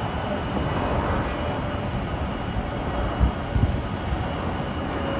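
Airbus A320neo jet engines running steadily as the airliner comes in to land, with a few short low thumps about three seconds in.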